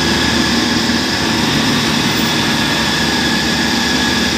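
Combine harvester engine running steadily at high throttle under load, while towing a harvester stuck in mud; the engine note comes up just before and then holds even.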